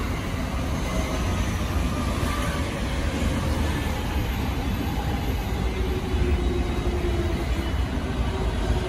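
JR East 209 series 500 electric commuter train rolling slowly past as it pulls into the platform: a steady rumble of wheels on the rails, with a faint humming tone in the second half.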